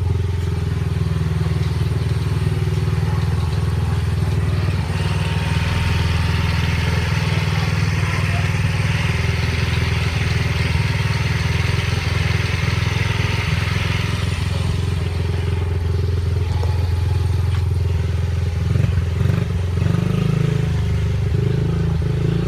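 Dirt bike engine running steadily, with a hiss building up in the middle of the stretch and fading again.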